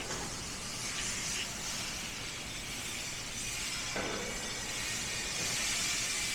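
Steady airy hiss, with a light knock about four seconds in; it stops suddenly at the end.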